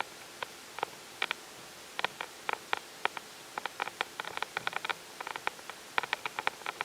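Irregular sharp clicks and taps, several a second and sometimes in quick clusters, over a steady hiss.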